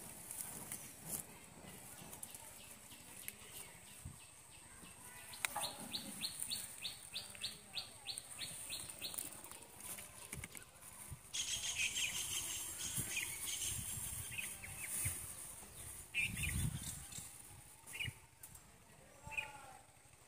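Birds chirping: a run of about a dozen quick, evenly spaced high chirps a few seconds in, then a longer stretch of rapid high chirping through the middle. A low thump comes near the end.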